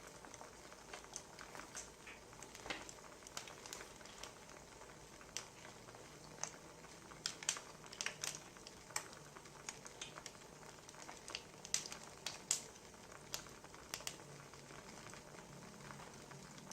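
Wood fire crackling: irregular sharp snaps and crackles over a low steady hiss.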